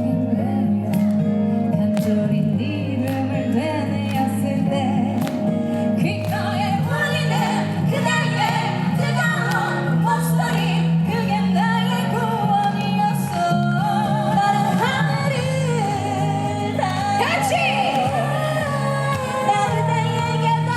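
Live band song played through a PA, guitar-led accompaniment with a lead vocal that comes in about six seconds in and carries the melody to the end.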